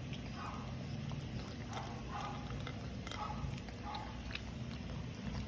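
A shih tzu chewing and biting its food, with irregular crunches and clicks over a low steady hum.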